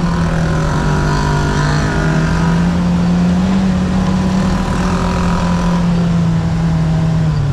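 Side-by-side UTV engine running at a steady speed while driving along a trail, its pitch holding nearly constant and then dropping as the throttle comes off near the end.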